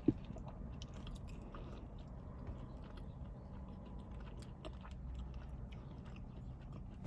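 A person chewing and biting food close to the microphone, with small wet clicks and a light crunch. There is one sharp short knock right at the start.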